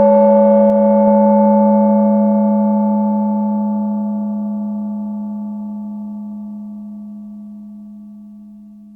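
A gong struck once, ringing with a low steady hum and a few higher overtones that fade slowly and evenly. It marks the start of the hypnosis session.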